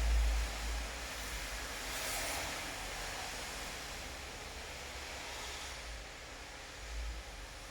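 Steady rain falling, an even hiss, with a brief low rumble at the start and another about seven seconds in.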